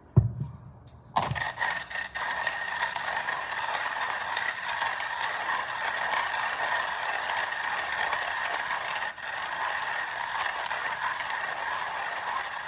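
Kinu hand coffee grinder being cranked, its burrs crunching and scraping through coffee beans in a steady gritty grind. It starts after a loud knock and a second knock about a second in.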